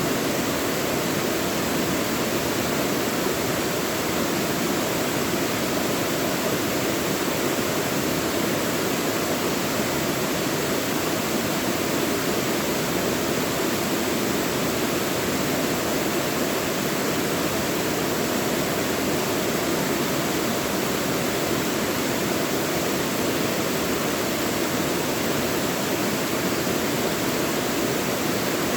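Mountain stream in a deep valley, water rushing steadily over rocks with an even, unchanging rush.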